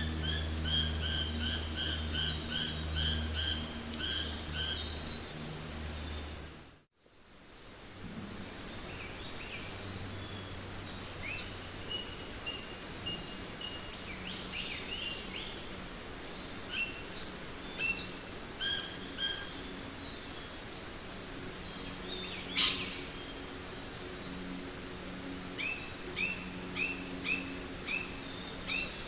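Several birds chirping and calling in a jungle over a steady background hiss, with a run of repeated chirps at first and one sharp loud call later. The sound drops out for a moment about seven seconds in.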